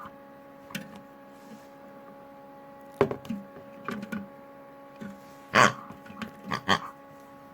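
LG washing machine running, its motor giving a steady hum while Kinder Surprise eggs tumbling in the drum knock against it irregularly, a dozen or so knocks with the loudest a little past halfway.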